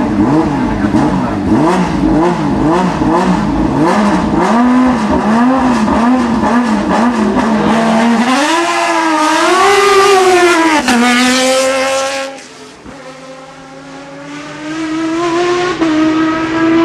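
Hillclimb race car engine at racing revs. Its pitch swoops up and down rapidly again and again, then climbs higher and cuts sharply about eleven seconds in. After a brief quieter spell a steady high engine note comes back near the end.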